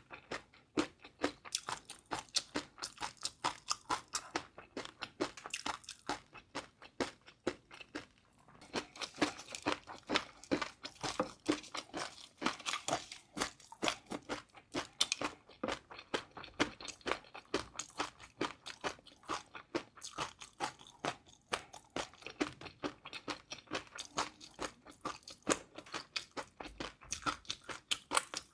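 Close-miked chewing of crunchy food: a dense run of sharp crunches and crackles, several a second, as the food is bitten and chewed.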